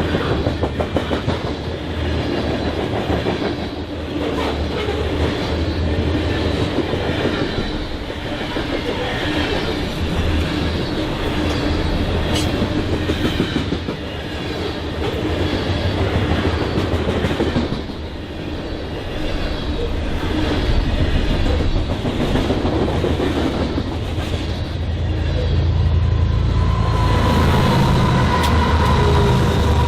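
BNSF freight train cars rolling past, their wheels clacking over the rail joints with a steady rumble. Near the end a steady high tone joins in and the low rumble grows stronger.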